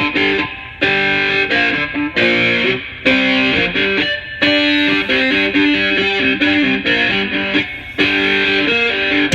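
Music played over an Alpine PXA-H700-based car audio system: an electric guitar with effects, played in short phrases of picked notes with brief gaps between them.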